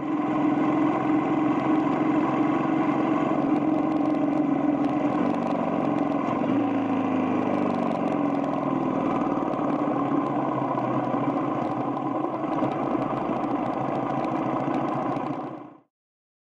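Motorcycle engine running steadily under way, heard from a camera mounted on the bike. Its pitch dips and rises again about seven seconds in, and the sound fades out near the end.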